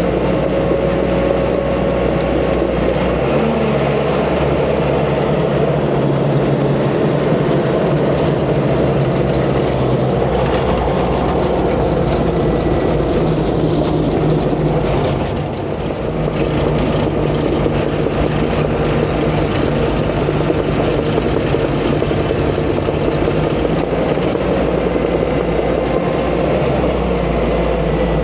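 Diesel engine of a crawler bulldozer running steadily under load while pushing dirt, its pitch shifting slightly a few times as the load changes.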